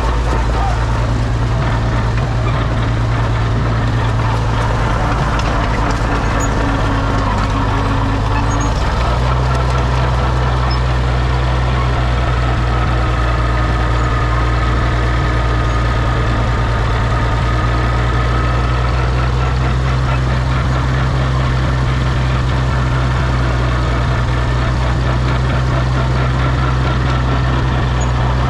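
Oliver OC-6 crawler tractor's engine running steadily, its note stepping to a slightly different pitch about nine seconds in as the engine speed changes.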